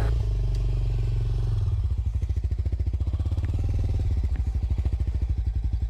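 Off-road dirt bike engine running at low revs. About two seconds in it settles into an even, steady putter.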